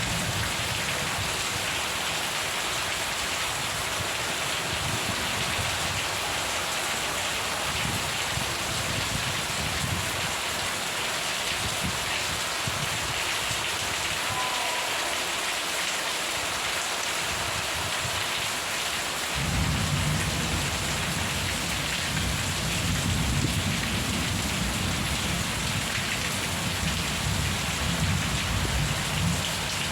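Steady rain falling, an even hiss. About two-thirds of the way through, a low rolling rumble of thunder sets in suddenly and goes on to the end.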